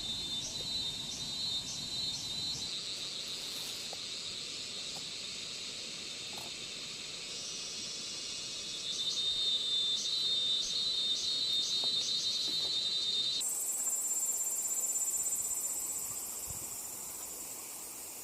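Insects chirping and trilling steadily in several high-pitched tones, with short, evenly repeated chirps over the top. About thirteen seconds in, the chorus switches abruptly to a single higher trill.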